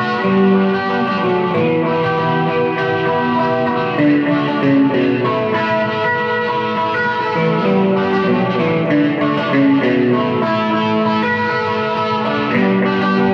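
Guitar with a capo high up the neck playing open first-position major-key chords around D, C, A minor and G, with notes ringing into each other. The tone is bright and tight, thickened by a tri-chorus effect and a short delay.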